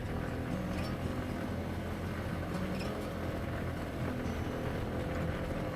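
A moving vehicle's engine and road noise: a steady low rumble.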